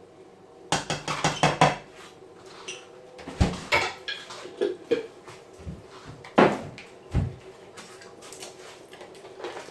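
Kitchen dishes and a spoon knocking and clinking as honey and double cream are added to a bowl: a quick run of knocks about a second in, then scattered clacks, the loudest about six and a half seconds in.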